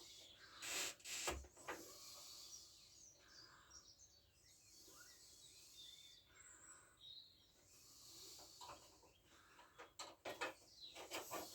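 Faint clicks and knocks of hand work on a scooter's parts, a cluster about a second in and another near the end, with faint bird chirps in the background.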